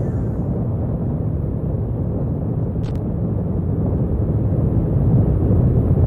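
Motorcycle on the move: a steady low rumble of engine and wind on the microphone, growing slightly louder near the end, with a faint click about three seconds in.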